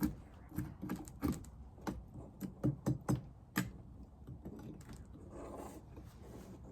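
Wooden beehive frames and hive tool clicking and knocking as frames are pried loose and handled, a quick run of sharp knocks, then a short scrape about five seconds in.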